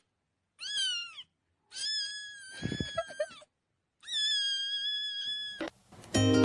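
A cat meowing three times: one short meow, then two long drawn-out meows, the last held at a steady pitch. Plucked-string music starts near the end.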